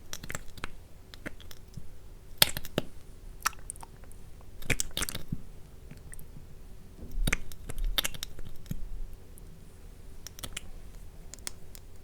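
Close-miked, wet, sticky clicks and smacks of lip oil being applied, coming irregularly in small clusters.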